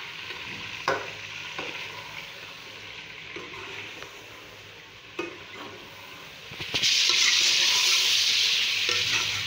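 Onions sizzling in hot oil in an aluminium pot, a metal ladle knocking against the pot a few times as it stirs. About seven seconds in the sizzle jumps suddenly much louder as raw chicken pieces go into the hot oil to fry.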